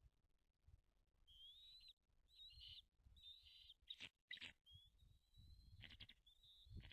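Birds at a nest calling: a run of short, thin, high whistled calls, some breaking into quick trills, about one every second.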